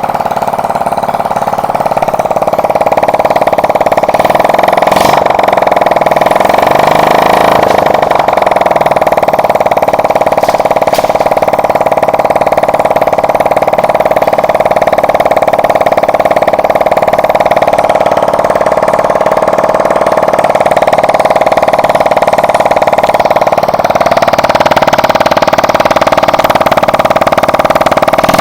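Honda Hunter Cub 50's small single-cylinder four-stroke engine running steadily, loud and close, brought back to life after some 30 years unused.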